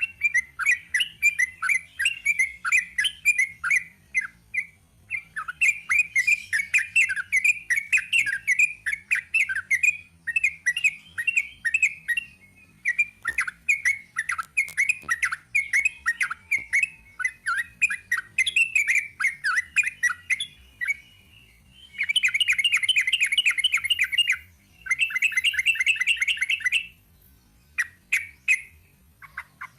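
Yellow-vented bulbul (trucuk) singing its long rapid 'ropel' song: fast strings of short chattering notes in phrases broken by brief pauses, with two especially dense, fast trills about three-quarters of the way through.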